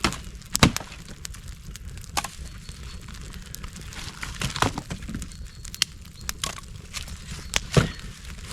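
Dry deadwood sticks being snapped by hand into short stove-length pieces: a series of sharp cracks, the loudest about a second in and near the end.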